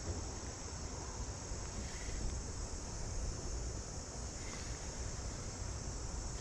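Steady high-pitched chorus of crickets, over a low, even rumble of outdoor noise.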